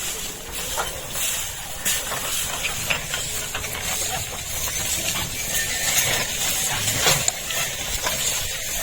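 Bullock cart rolling: a steady hissing noise with frequent rattling clicks and knocks from the cart.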